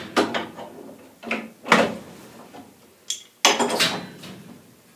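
Wrench knocking and scraping against metal pipe fittings while a gas pipe union is tightened: several sharp metallic clanks with brief ringing, the loudest about halfway through.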